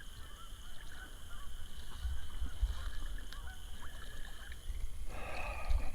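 A goose honking: one loud, harsh call near the end, with a few fainter, shorter calls earlier, over a low steady rumble.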